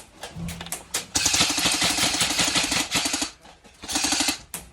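Airsoft rifle firing on full auto: a rapid stream of shots lasting about two seconds, then a shorter burst near the end.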